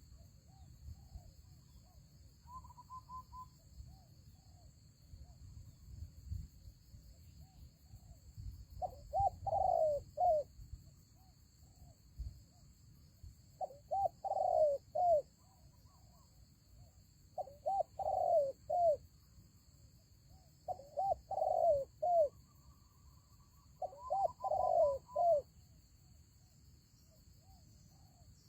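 Spotted dove cooing: five phrases of several short, rising-and-falling coos each, a few seconds apart.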